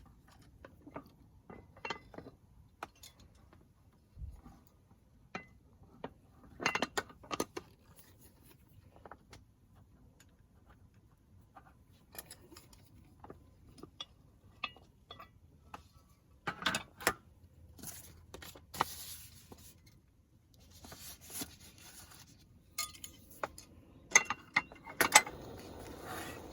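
Metal camp cookware and utensils being handled: scattered clinks, taps and clatters, with a louder cluster near the end. A steady hiss sets in just before it ends.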